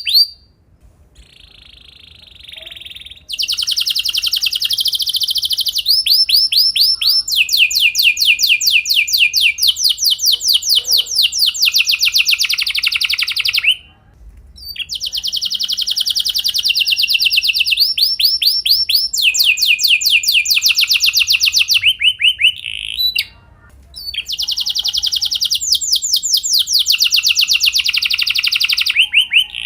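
Domestic canary singing long rolled trills: fast trains of rapidly repeated notes, switching to a new roll every second or two. The song breaks off briefly about 14 s in and about 23 s in, and is quieter for the first few seconds.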